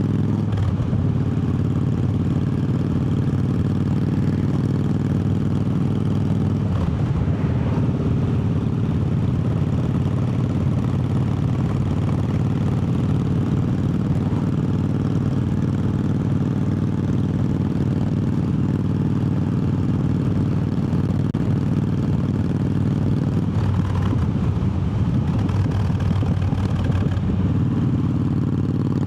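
Triumph Bobber's 1200 cc parallel-twin engine running steadily under way. Its pitch dips and rises briefly about a second in, about seven seconds in, and again between about 24 and 27 seconds in, as the throttle and gears change.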